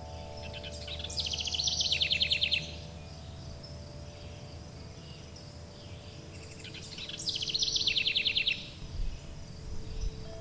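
A songbird sings twice, about five seconds apart; each song is a quick run of high notes ending in a fast, even trill. Under the birdsong, wind chimes hold long, steady ringing tones, with a faint steady high insect buzz.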